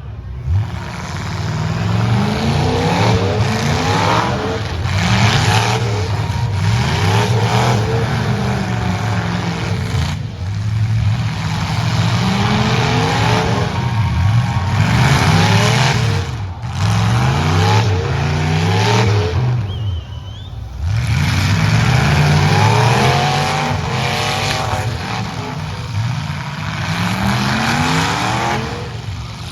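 Engines of several demolition derby trucks revving hard, their pitches climbing and falling and overlapping. The sound dips briefly about two-thirds of the way through.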